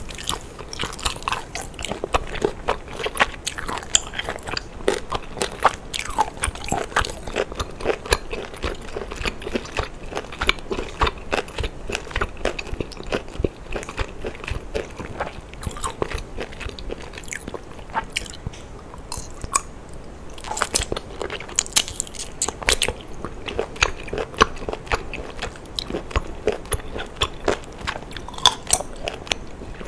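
Close-miked chewing and biting of a cooked octopus tentacle, a dense, irregular run of short clicks and crunches that eases off briefly a little past the middle.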